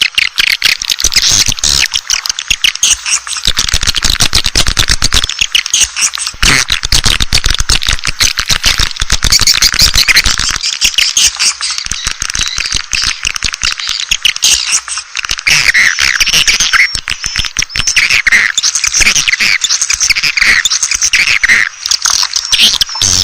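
Dense chorus of swiftlets twittering, with fast rattling clicks under many short high chirps, as in a swiftlet call recording.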